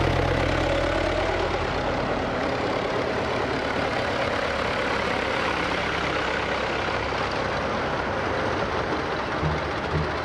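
Vintage tractor engines running with a steady, rough mechanical rumble.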